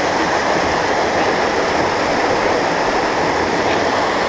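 Steady rush of falling water from a mountain stream's waterfall, an even noise without pitch.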